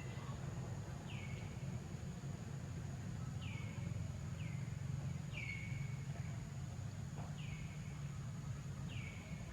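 Six short high animal calls, each falling quickly in pitch, spaced irregularly over a steady low rumble and a thin, steady high insect-like drone.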